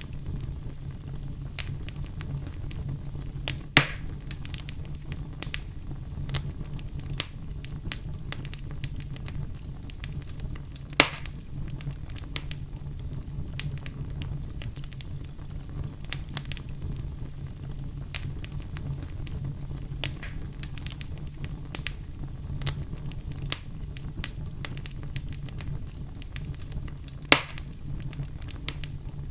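Wood fire burning in a fireplace: a steady low rumble of flames with frequent small crackles and three sharp, loud pops, about 4, 11 and 27 seconds in.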